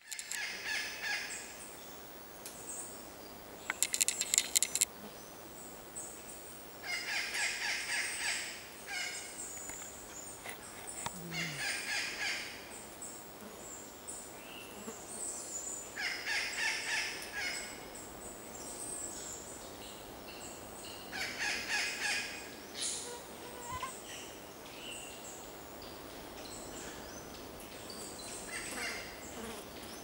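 Forest birds calling in high-pitched bouts of a second or two, repeated every few seconds. A loud, fast rattle of sharp clicks comes about four seconds in.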